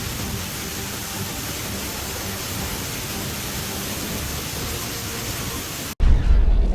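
Steady, loud hiss of heavy water noise: downpour or rushing storm water. About six seconds in it cuts off abruptly to a louder, low rumble.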